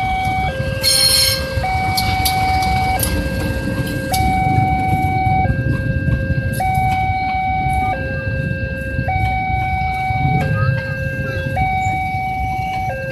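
Passenger coaches of a diesel-hauled train rolling past close by, with a steady wheel-on-rail rumble and clicks over the rail joints. Over it, a level-crossing alarm sounds a two-tone signal, switching between a low and a high note about every second.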